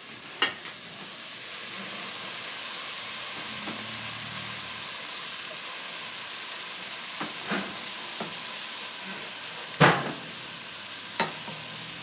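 Diced mixed vegetables sizzling steadily in a pot on the stove as cooked rice is spooned in on top, with a few sharp knocks of a slotted spoon against the pot, the loudest about ten seconds in.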